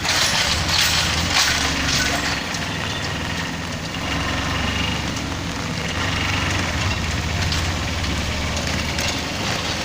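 Rain falling steadily, with a crackly patter, over street traffic and a motor vehicle engine running underneath. A few louder crackling taps come in the first two seconds.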